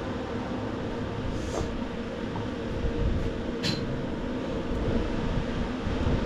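Steady background hum of running machinery, with two faint clicks, about a second and a half and nearly four seconds in.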